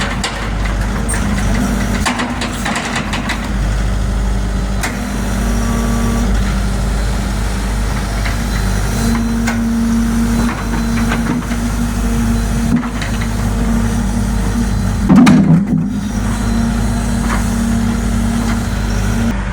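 Heavy vehicle engine running steadily, with a brief louder surge about fifteen seconds in.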